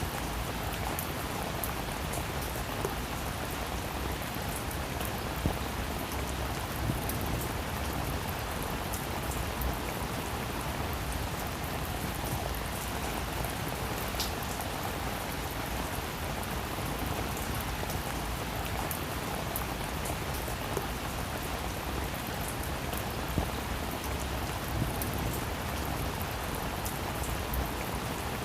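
Steady heavy rain falling on a roof, a dense even hiss with scattered louder drop ticks.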